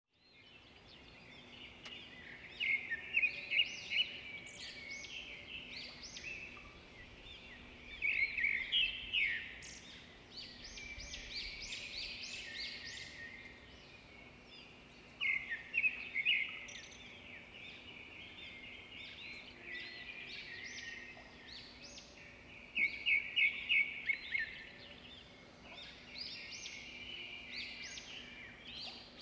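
Birds chirping and singing in quick trills, with louder bursts every several seconds, over a faint steady hum.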